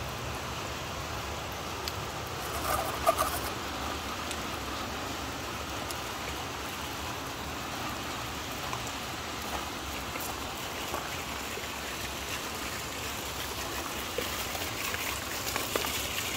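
Steady rain falling on wet ground, with water trickling over stones. A brief louder sound stands out about three seconds in.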